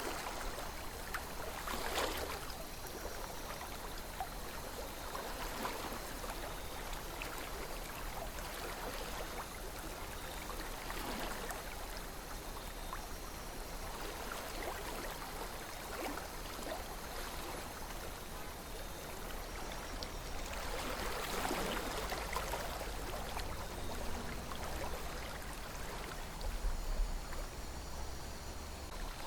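A calm river flowing: a steady rush of water with occasional louder gurgles and splashes, about two seconds in and again past the twenty-second mark, over a low rumble.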